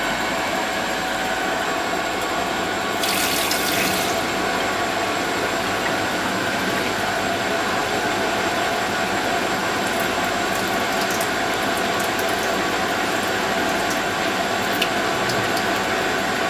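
Zanussi Z913 front-loading washing machine running steadily, a continuous mechanical hum with several steady tones, with a brief hiss about three seconds in.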